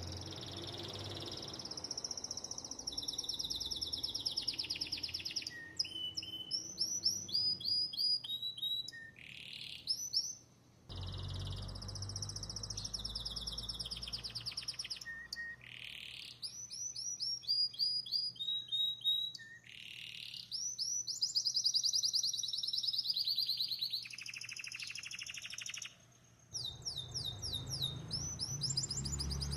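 Belgian canary singing a long, almost continuous song of rapid high trills and rolls, with quick rising sweeps between phrases. It breaks off briefly twice.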